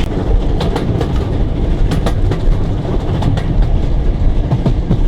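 Train running on rails: a steady heavy rumble with irregular sharp clicks of wheels passing over rail joints.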